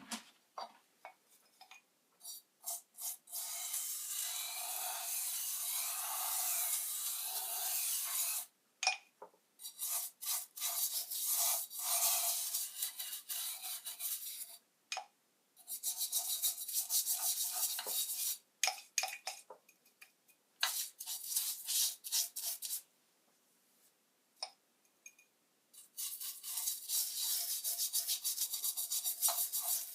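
Scraping or rubbing on a hard surface, in stretches of a few seconds broken by short pauses and a few quick strokes.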